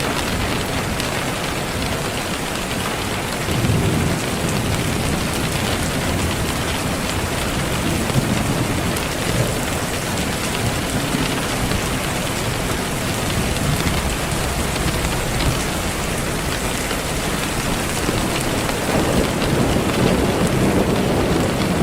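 Steady rain hiss, with low rumbling swells about four seconds in and again near the end.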